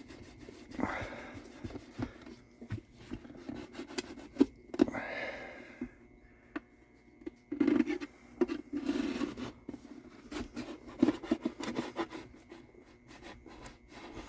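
Irregular scraping, rubbing and small clicks of a hand tool working against the wooden body of a mandolin as its glued back is being pried loose.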